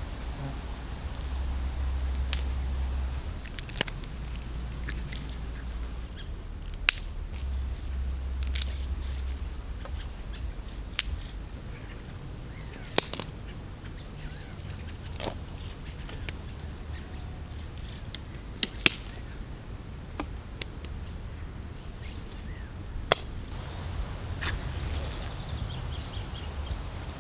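Dry twigs and sticks snapping sharply, about a dozen separate cracks a second or more apart, over a low steady rumble of wind on the microphone.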